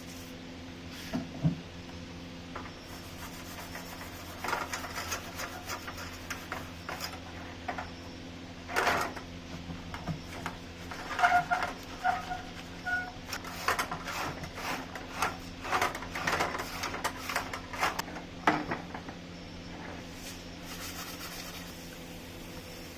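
Hands working on small metal fan parts: irregular clicks, knocks and scraping, with a few short squeaks in the middle, over a steady low hum.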